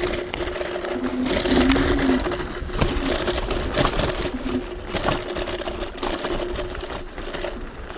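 TRBK-M2 electric hyperscooter riding over rough trail: a steady motor whine, with a lower tone that comes and goes, under repeated rattles and knocks from the scooter over bumpy ground.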